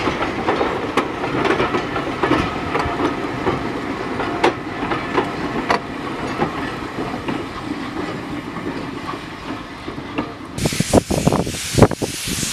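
Passenger coaches rolling slowly past, their wheels clicking irregularly over the rail joints with a steady rumble. Near the end, wind buffets the microphone with a loud rushing hiss.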